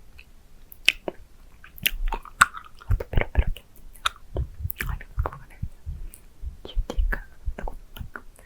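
Close-miked mouth sounds of someone licking and sucking on a candy: irregular wet clicks and smacks.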